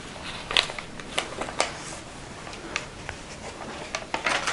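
Paper rustling and soft taps as the pages of a handmade journal are handled and turned, with a scatter of short crinkles and clicks.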